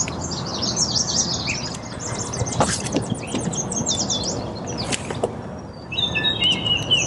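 Several songbirds chirping, a dense run of rapid high chirps and quick falling notes, then a different held, warbling call from about six seconds in. A couple of brief knocks sound between them.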